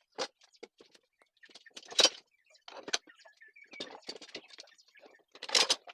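A series of irregular knocks and clicks, the loudest about two seconds in and near the end, with faint bird chirps between them.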